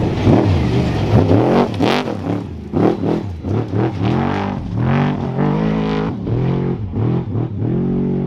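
Off-road racing truck's engine revved hard with the throttle worked on and off, its pitch rising and falling about twice a second, with a few sharp clacks, then settling to a steady note near the end.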